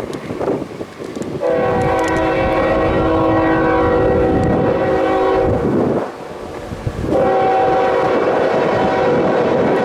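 Nathan K5HL five-chime air horn on a CSX ET44AH locomotive blowing two long blasts, the first about four seconds long and the second starting about seven seconds in, over the rumble of the passing freight train.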